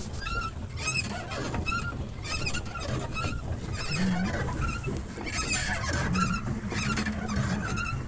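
Wooden oars of a rowed country boat squeaking in their rowlocks, one short squeak about every half second in a steady rhythm with the strokes.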